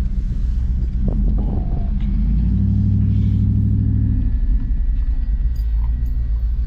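Engine and road rumble from inside a vehicle's cab while it drives slowly, a steady low drone. The engine hum swells louder for about two seconds midway.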